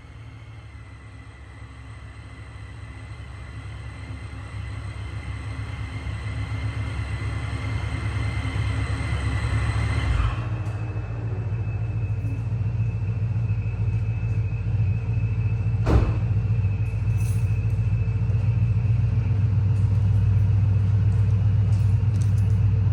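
Procharger-supercharged 2009 Ford Mustang 4.0 V6 running steadily through Vibrant Streetpower mufflers: a deep, even exhaust rumble that grows louder. A high whine stops about ten seconds in, and there is a single sharp knock later on.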